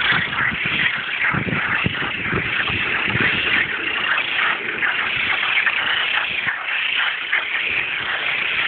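A dense chorus of many frogs calling at once, their overlapping pulsed calls running steadily, with some deeper calls a second or two in. These are mating calls.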